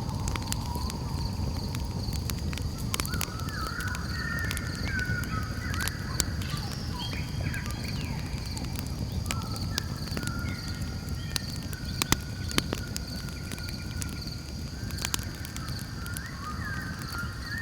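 Campfire crackling, with a steady low rumble of burning and frequent sharp pops. Night insects keep up a steady high pulsing trill, and other night creatures give wavering calls that come and go over it.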